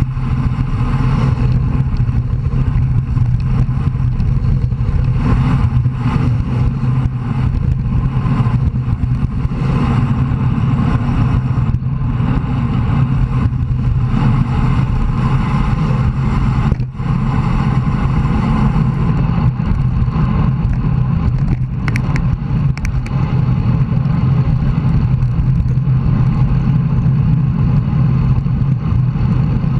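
Steady wind rush and road noise on a bicycle-mounted camera while riding, with a few brief clicks about two-thirds of the way through.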